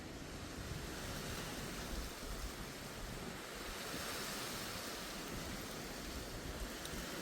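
Steady rushing noise, swelling slightly about four seconds in.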